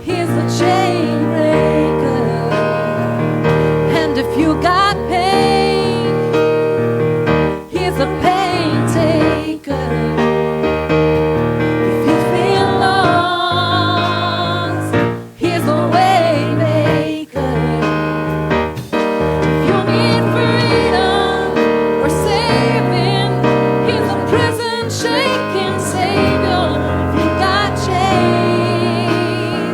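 Gospel worship song: piano and keyboard chords under singing voices that hold long, wavering notes with vibrato, with a few brief breaks between phrases.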